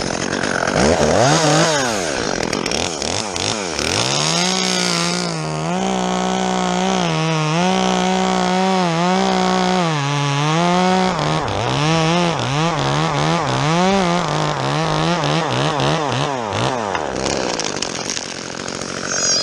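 Chainsaw revving up about a second in and cutting into the fir, its engine pitch wavering under load. The pitch sags and wanders in the later part before the saw stops near the end. It is running a chain that isn't very sharp.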